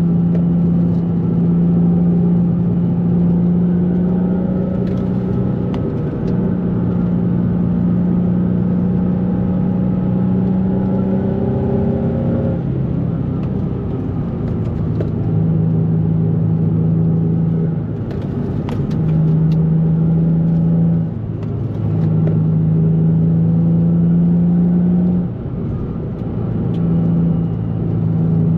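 2004 Nissan 350Z's 3.5-litre V6 engine and exhaust running steadily under way. The note drops in pitch and breaks off briefly several times.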